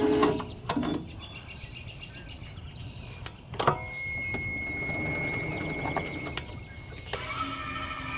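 Sawmill's blade-height motor whining and stopping just after the start, followed by a few sharp knocks and clicks, the loudest about three and a half seconds in, and a thin steady high whine from about four seconds on; the motor hums briefly again near the end.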